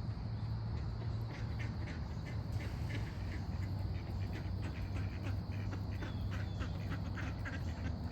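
Birds calling, a steady run of many short repeated calls, over a low steady hum.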